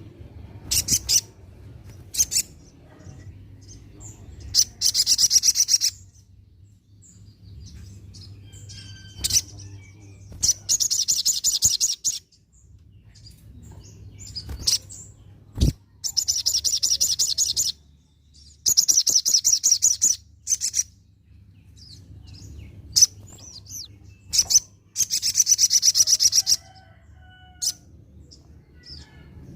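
Olive-backed sunbird (sogon) in full song: high-pitched, rapid trills about one to two seconds long, five of them, with sharp single chirps between. A faint low hum runs underneath.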